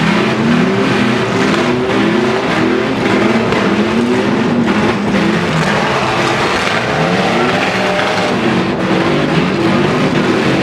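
Demolition derby trucks' engines revving hard in repeated short rising bursts, several at once, over the steady noise of the arena.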